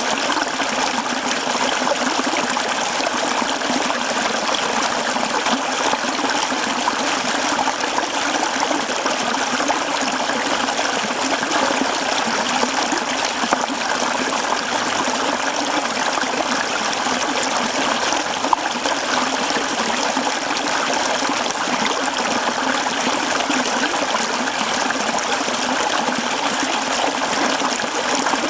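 A mountain stream running over rocks, a steady trickling and splashing of water.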